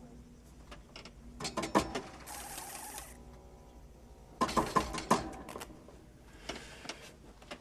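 Clattering mechanical clicks and ratcheting from the workings inside a mechanical rhino costume. They come in two bursts, about one and a half seconds in and again about four and a half seconds in, with a short hiss after the first burst.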